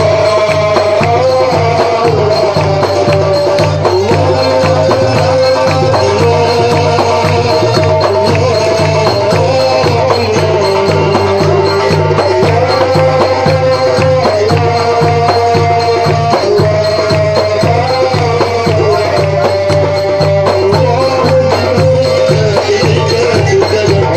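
Port Said simsimiyya folk ensemble playing an instrumental passage between sung verses: a melody moving in held, stepping notes over a fast, steady beat with rattling hand percussion.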